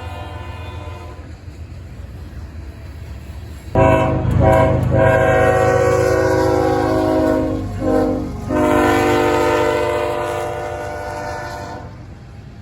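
Freight locomotive air horn sounding a multi-note chord in long blasts, broken by two brief gaps near the middle, over the steady rumble of a passing freight train. The horn pattern fits a grade-crossing warning sequence.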